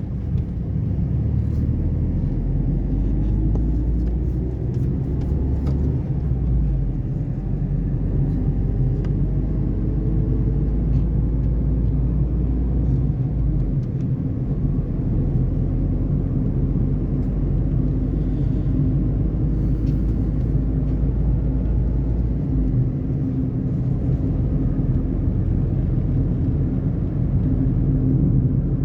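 Tata Tiago NRG driving: steady engine note with low road rumble, the engine pitch shifting slightly now and then.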